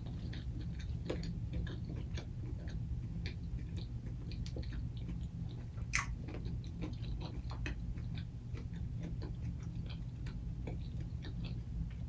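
Close-miked chewing of a mouthful of lettuce-wrapped chicken sandwich: a run of small, irregular wet mouth clicks and crunches, with one sharper click about six seconds in.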